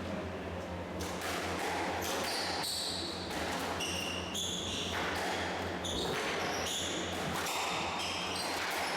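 Squash rally: the ball knocking off rackets and court walls, with short high-pitched squeaks in between, over a steady low hum.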